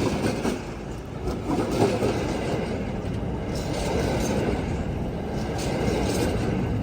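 Wheat train's grain wagons rolling past, a steady rumble of steel wheels on the rails with a few faint clicks.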